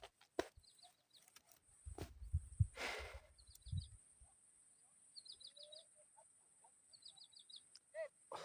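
Birds calling, a short high chirping phrase repeated every second or two over a steady high-pitched whine, with a few low thumps and a brief rustle about two to four seconds in.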